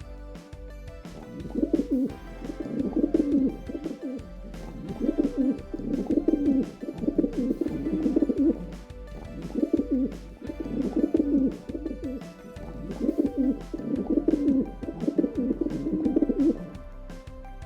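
A bird's low cooing calls, repeated in about seven phrases roughly two seconds apart, over soft background music.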